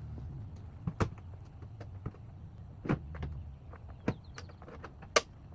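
A few sharp, separate clicks and knocks from handling and fitting rebuilt finger pick-up corn meters on a John Deere 7000 corn planter, over a low rumble.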